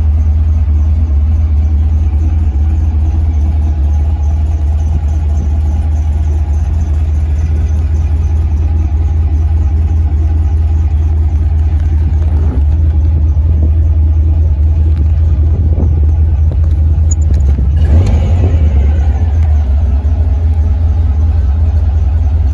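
The 1968 speedster's engine running, heard from inside the cabin as a steady low rumble, rising briefly in revs about eighteen seconds in.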